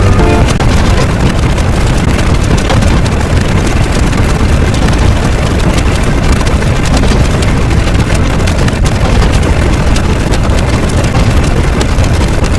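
A loud, steady, noisy engine-like rumble with scattered crackles, holding level throughout.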